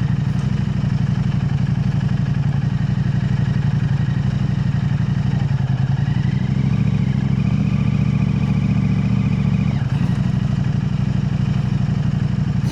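KTM 890 Adventure R's parallel-twin engine running steadily through an Arrow Race-Tech aftermarket exhaust, a low, even exhaust note with no revving. A faint high tone joins for a few seconds midway.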